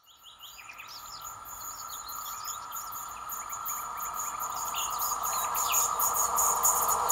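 An approaching electric train, a PKP Intercity EP07 locomotive with its carriages: a steady whine and rising noise growing louder, with quick ticking that becomes more frequent toward the end. Small birds chirp over it.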